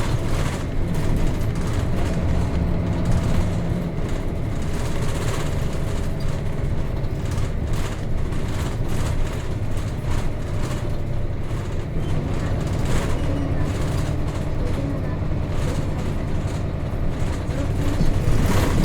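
Nissan Diesel KC-RM211GSN bus's FE6 straight-six diesel running under way, heard from inside the cabin: a steady low engine drone with road noise and scattered light rattles.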